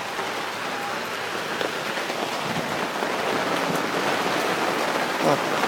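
Heavy rain pouring down, a steady hiss of drops on surfaces that grows slightly louder.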